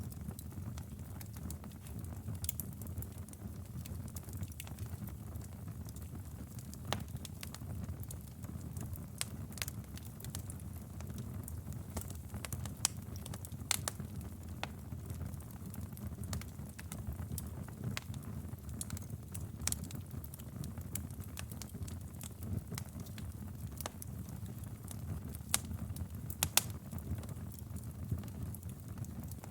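Wood fire burning in a fireplace: a steady low rumble of the flames with scattered sharp crackles and pops, a few louder pops near the end.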